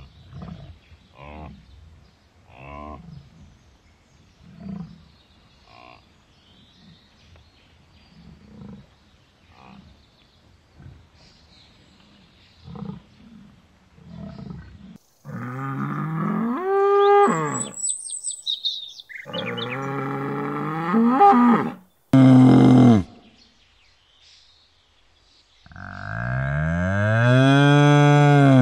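American bison grunting, short low grunts every second or so; then several loud, drawn-out moos that rise and fall in pitch, the longest and loudest near the end.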